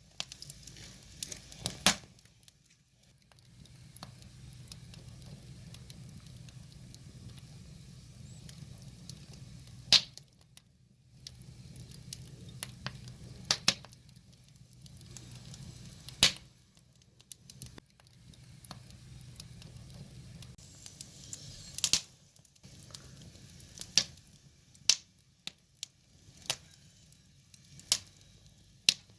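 Split-log wood fire burning: sharp, irregular crackles and pops every few seconds over a soft, steady hiss.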